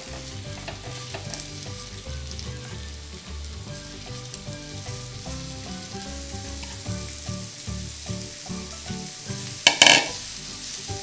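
Butter sizzling under a layer of grated potato and onion on a hot flat nonstick pan over a low flame, a steady frying hiss. A brief louder burst of sizzle comes near the end.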